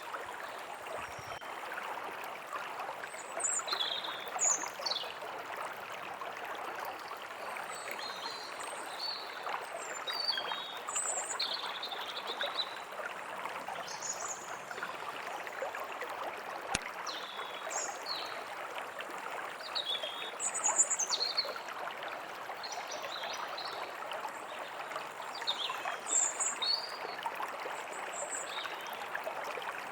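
A steady trickling stream running, with small songbirds chirping in short high calls every second or two above it.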